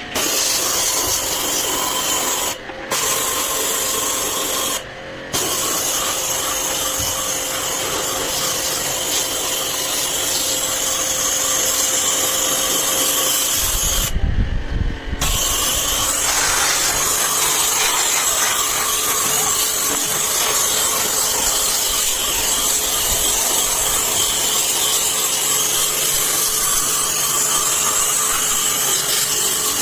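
Jet pump pressure washer running with its water jet hissing steadily as it sprays an air conditioner's coil; the spray breaks off briefly three times in the first half.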